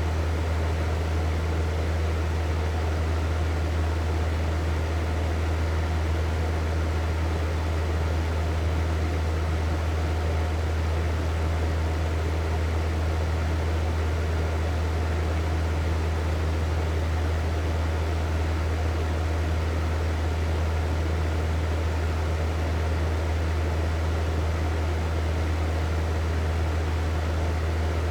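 Hair dryer running steadily, a constant airflow rush over a strong low motor hum, with no change.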